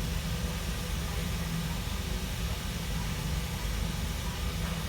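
Car engine idling: a steady low hum with an even hiss over it.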